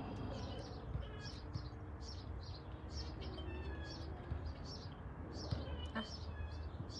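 Birds chirping in short, high notes repeated about twice a second, over a low, steady rumble.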